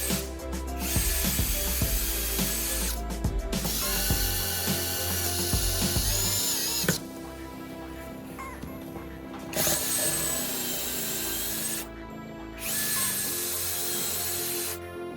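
An electric power tool running in several short stretches that start and stop abruptly, with background music.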